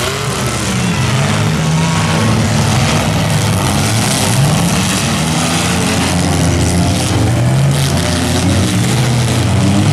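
Engines of several compact demolition derby cars running and revving at once. Their pitches rise and fall as they manoeuvre.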